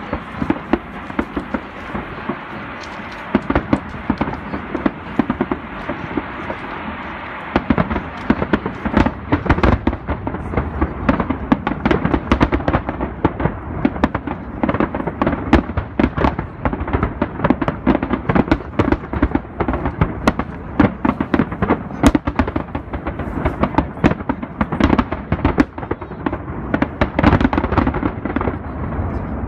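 Aerial fireworks bursting in rapid succession: a series of sharp bangs and crackles, sparse at first and becoming a dense, near-continuous barrage from about seven or eight seconds in.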